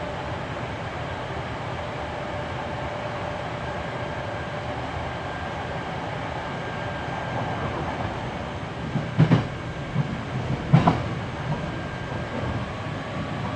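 Interior running noise of a Hankyu 7300-series electric train car at speed: a steady rumble of wheels on rail, with two short clusters of knocks about nine and eleven seconds in as the wheels cross rail joints.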